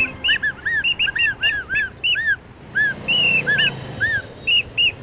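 Bird chirping: a quick string of short, clear notes that rise and fall, alternating between a higher and a lower pitch, several a second.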